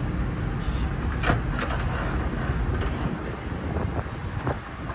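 A steady low engine rumble that eases off about three and a half seconds in, with a few short sharp clicks over it.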